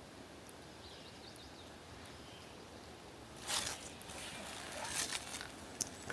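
Quiet woodland air with faint high bird chirps about a second in, then, from about halfway through, several short rustles and crunches of a person moving on the forest floor.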